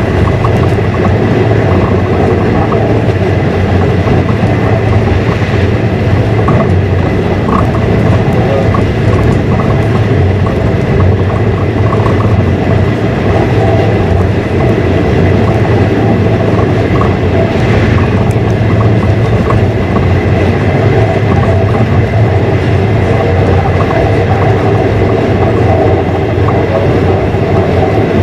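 Passenger train running along the track, heard from inside the carriage: a steady rumble of wheels on rails with a faint high whine and occasional small rattles.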